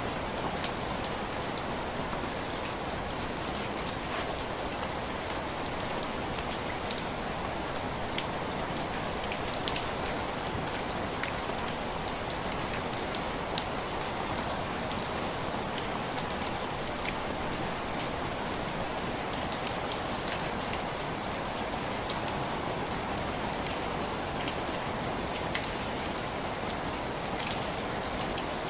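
Steady rain tapping on window glass: a constant hiss of rainfall with many scattered, sharp ticks of single drops striking the pane.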